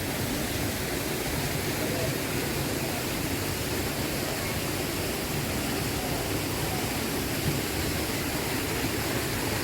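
Steady rushing of flowing water, an even and unbroken noise.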